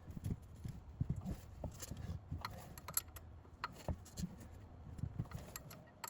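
Irregular metallic clicks and low knocks of hand tools working on the water pump pulley bolts in an engine bay.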